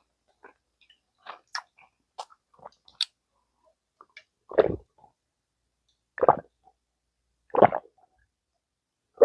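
Close-miked eating of gamjatang, pork-bone stew: a few soft mouth clicks, then from about four seconds in a run of louder, short wet mouth sounds about a second and a half apart.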